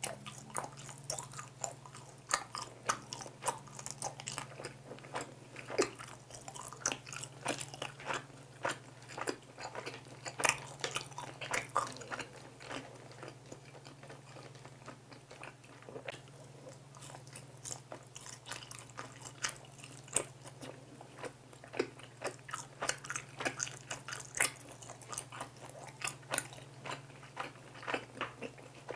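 Close-miked biting and chewing of soy-glazed fried chicken: crisp crackles from the coating with each bite and chew, thinning out for a moment about halfway through, over a steady low hum.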